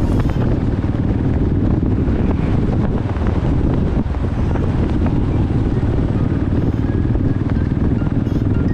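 Motorcycle riding at road speed, a steady loud rumble of engine and road noise mixed with wind buffeting the microphone.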